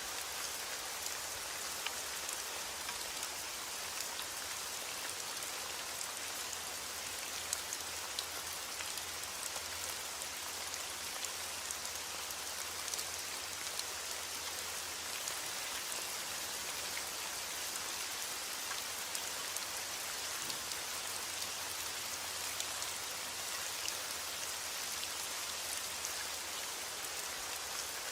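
Steady heavy rain, an even hiss with many small drop ticks scattered through it.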